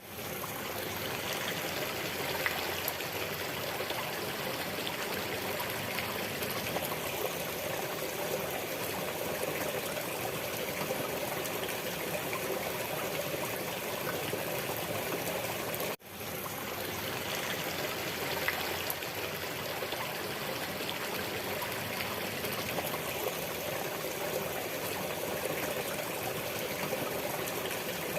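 Flowing stream water, a steady trickling rush. It drops out for an instant and swells back in about halfway through, where the recording loops.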